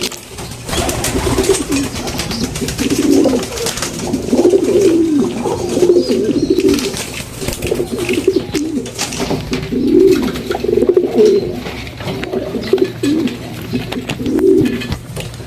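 Pigeons cooing, low warbling coos following one another about every second and often overlapping.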